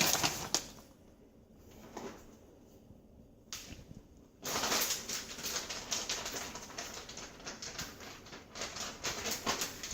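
Shredded cheese being tipped from a plastic bag into a pot of soup, the bag crinkling and rustling in short bursts, then near-continuously through the second half.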